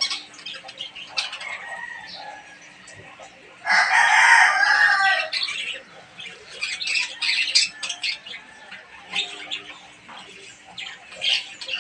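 Caged lovebirds chirping in short sharp calls, with a rooster crowing once, loud and about a second and a half long, around four seconds in.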